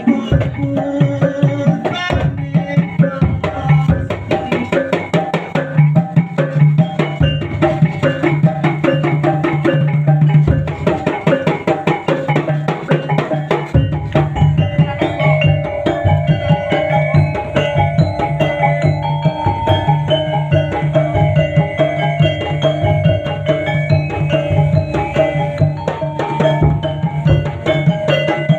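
Topeng Ireng accompaniment music: a fast, dense rhythm of hand-played drums and percussion, joined about halfway through by sustained ringing tones.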